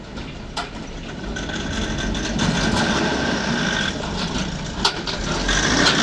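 Heavy engine running and growing steadily louder, with a few sharp clanks.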